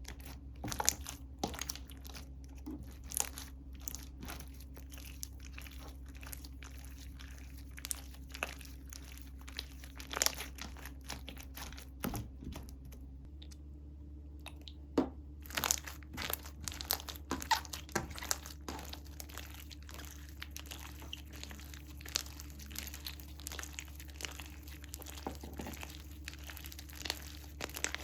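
Slime being squeezed and pressed by hand, giving a dense run of small crunchy clicks, pops and crinkles, with a short quieter lull about halfway through.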